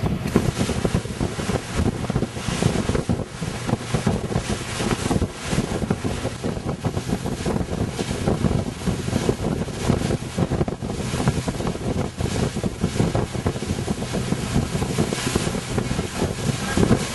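Wind buffeting the microphone on a boat under way, over a steady rush of water.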